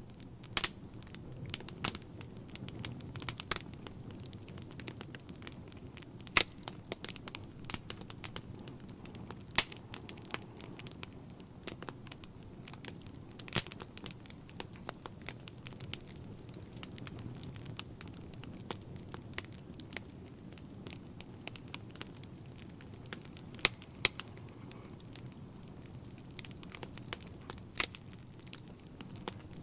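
Wood fire burning in a fireplace: a low steady rumble of the flames with frequent irregular crackles and pops, a few of them sharply louder.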